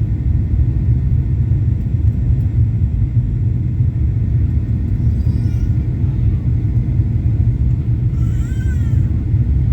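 Cabin noise of a Boeing 737-800 heard from an economy seat: a loud, steady low rumble of the engines and airflow. Two brief, faint, wavering high-pitched sounds rise above it, about five and eight seconds in.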